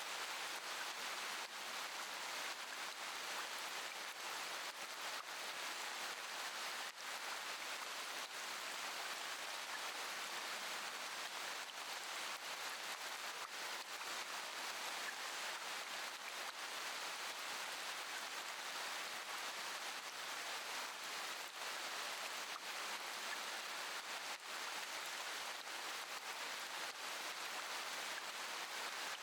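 Steady rainfall: an even hiss of rain with faint scattered drop taps.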